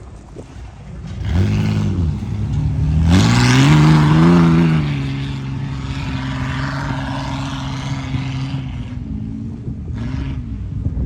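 Tuff truck engine revving: a short rev about a second in, then a longer rev that climbs, peaks and holds steady, and another short rev near the end.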